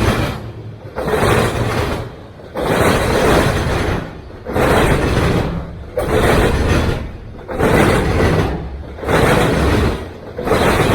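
Freight train rolling past close by, its noise swelling and dropping in a regular rhythm about every second and a half.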